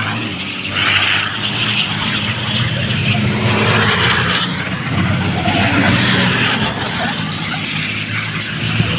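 Racing trucks' engines running on the circuit, a steady low drone that swells and fades as they pass.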